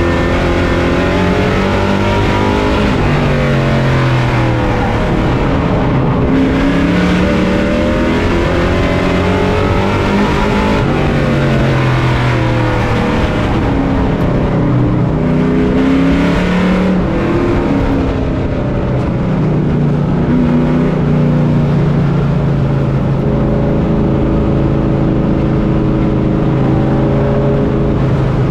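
Race truck engine heard from on board, revving up and falling back in pitch again and again as it accelerates and lifts through the laps. Over roughly the last ten seconds it holds a steady pitch.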